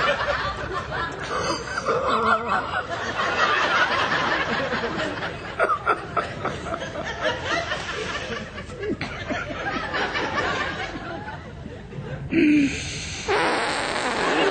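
Stifled snickering and chuckling laughter, choppy and continuous, with a few louder outbursts.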